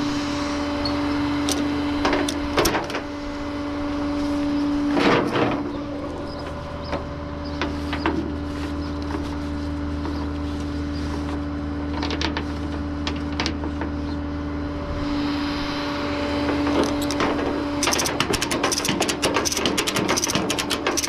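Tow truck running steadily with a constant hum, with metal knocks and clanks from work around it and a fast run of clicks near the end.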